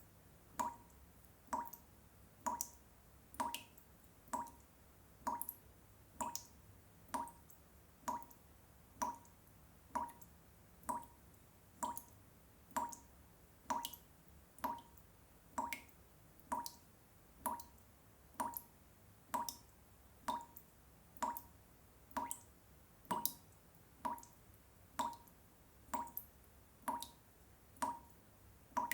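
Water dripping one drop at a time at a steady, even pace, about three drops every two seconds, each a short plink.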